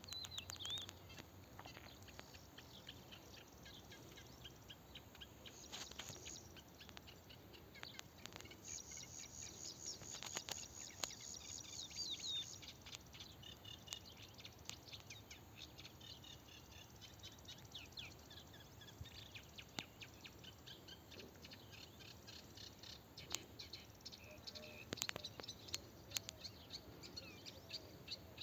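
Faint birdsong: several birds chirping and calling, with a fast, high trill from about nine to twelve seconds in. A few soft clicks come in between.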